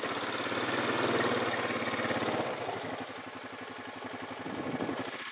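A small engine running at a steady idle, with a fast, even firing pulse; it stops suddenly at the end.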